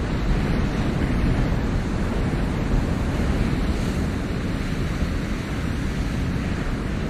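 Ocean surf washing steadily, a continuous low rushing of waves with no distinct breaks.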